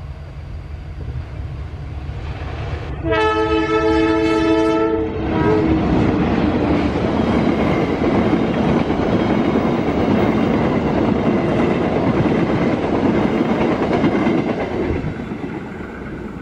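A KAI diesel locomotive approaches with a low rumble and sounds a two-second horn blast about three seconds in. The passenger train then runs past close by, with loud wheel-on-rail noise and clickety-clack of the carriages that eases off near the end.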